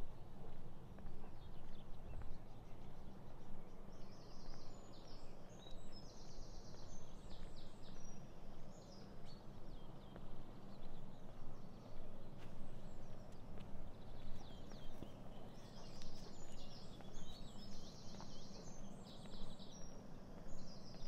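Songbirds singing short phrases of rapid repeated high notes, in one cluster about four seconds in and another in the second half, over a steady low rumble.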